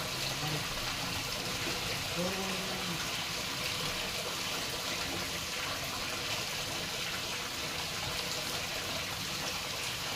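Water running in a steady, even flow with no break.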